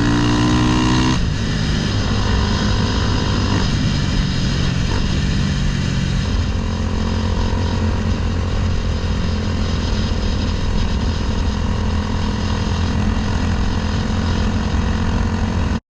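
Honda Grom with a swapped-in CBR300R single-cylinder engine, ridden under way. The engine climbs in pitch for the first second, drops at a gear change, shifts again a few seconds later, then settles to a steady cruise. The sound cuts off suddenly just before the end.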